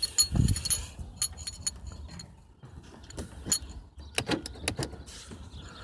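Scattered light metallic clinks and jingles, with a dull knock about half a second in, over the low steady idle of a 1999 Dodge Durango's 5.9-litre Magnum V8.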